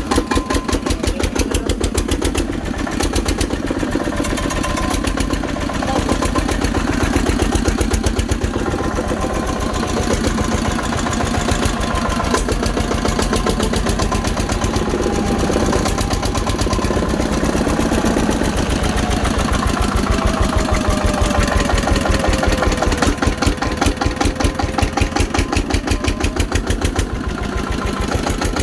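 Single-cylinder tractor engine running steadily at idle, each firing stroke heard as a distinct, even beat. The engine has just been brought back to life after standing unused for three years.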